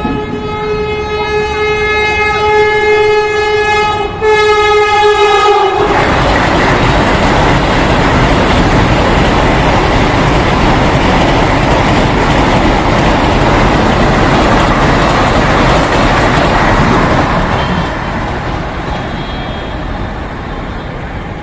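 Vande Bharat Express electric train sounding its horn in one long blast, broken briefly about four seconds in, the pitch dropping slightly as the train comes level. Then the loud rush of the train passing at speed for about eleven seconds, fading from about seventeen seconds on.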